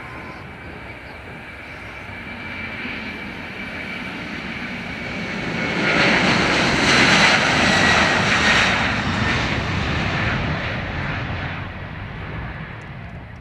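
Boeing 767 twin-engine jet airliner taking off and passing. The engine noise builds to its loudest about six to nine seconds in, with a steady high whine over the roar, then fades away.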